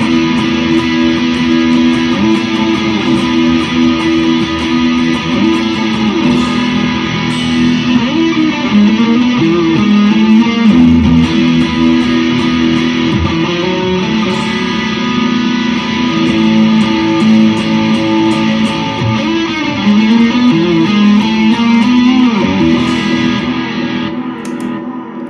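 Electric guitar played through a JHS Kilt V2 drive pedal in its distortion mode at high gain: sustained distorted notes and chords with some bends, heard from monitor speakers in the room. It rings out and fades about a second before the end.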